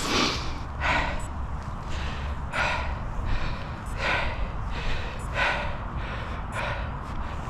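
Heavy, rhythmic breathing of someone running hard: a sharp breath about every second and a half, over a low rumble.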